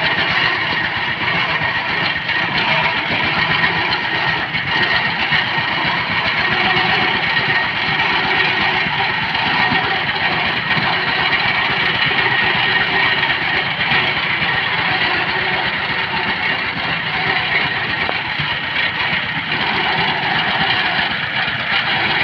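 Diesel engine of a power tiller running steadily at an even speed.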